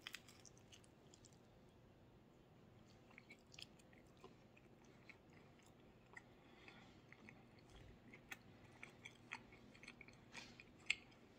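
Faint chewing of a mouthful of sausage pan pizza: soft wet mouth clicks scattered throughout, busier in the second half, with one sharper click near the end.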